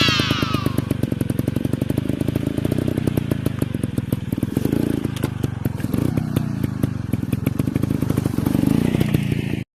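Dirt bike engine running with rapid firing pulses, the revs swelling and easing a few times. A high falling tone fades out in the first second. The engine sound cuts off suddenly just before the end.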